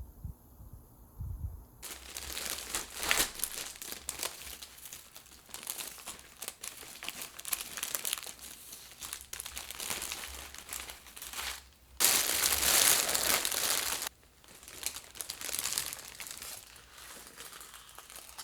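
Crinkly wrapping material being handled and crumpled at close range, in uneven bursts, with a louder steady rasp lasting about two seconds, starting about twelve seconds in and stopping abruptly.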